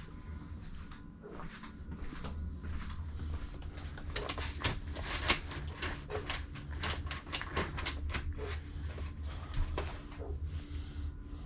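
A quick run of clicks, knocks and rustles, densest from about four seconds in to near the end, over a low steady hum.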